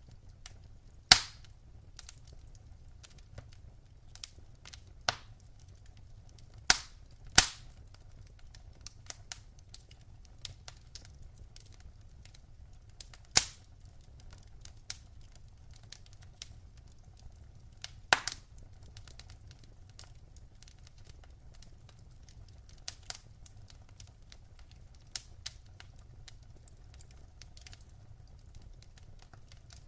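Wood fire crackling in a fireplace: irregular sharp pops and snaps over many small ticks and a faint low rumble. The loudest pops come about a second in, twice close together around seven seconds, near the middle, and a few seconds after that.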